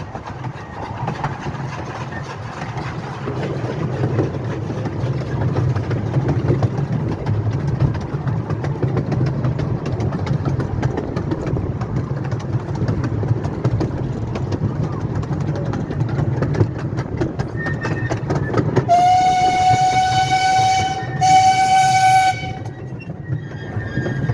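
Miniature railway train running along the track, heard from on board: a steady low rumble with fast clicking of the wheels over the rails. Near the end the locomotive's whistle sounds twice, a long blast and then a shorter one.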